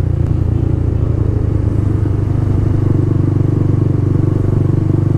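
A 150 cc motorcycle engine running at a steady, even speed while riding, heard from the rider's position.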